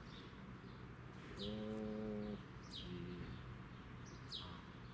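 A bird repeating a short, high, downward-sliding chirp about once a second. Partway through, a steady low held tone sounds for about a second, followed by a brief higher one.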